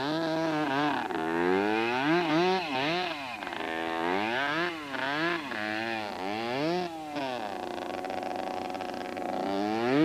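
Small motorcycle engine being revved up and down over and over in quick swells, then held at a steadier speed for a couple of seconds before it picks up again near the end.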